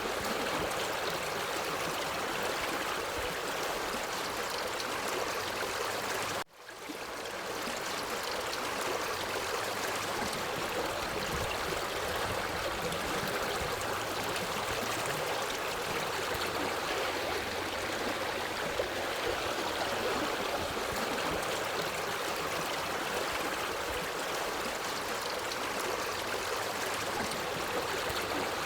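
Forest stream flowing steadily, a constant rush of running water. About six seconds in, the sound briefly cuts out and fades back in.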